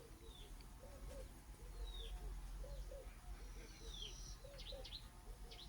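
Doves cooing: soft low coos repeating, often in pairs. A small bird's high, falling chirps come a few times over them, with a quick run of high notes near the end.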